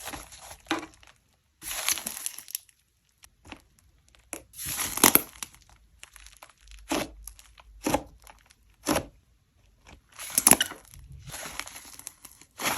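Butter slime being squished and stretched by hand: a series of short, irregular noisy bursts, with three sharp snaps about a second apart midway through.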